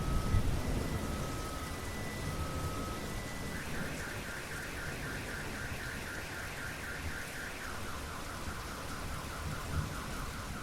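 Steady rain with a low thunder rumble fading at the start, and a car alarm sounding over it. The alarm gives alternating high and low beeps, then about a third of the way in switches to a fast warbling tone that runs nearly to the end.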